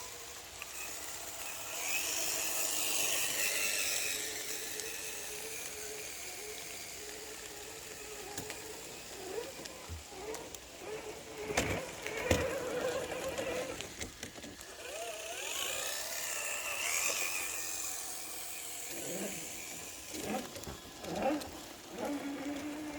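Electric motor and geared drivetrain of an Axial RC rock crawler whining, swelling up and easing off twice as the throttle is worked, with a few sharp knocks about halfway through.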